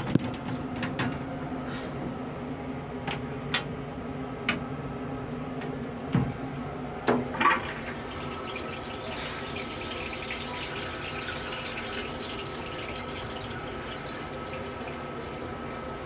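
Water running steadily in a railcar restroom, starting about eight seconds in, just after a click and a short rising chirp. Before that, scattered sharp clicks over the car's steady low hum.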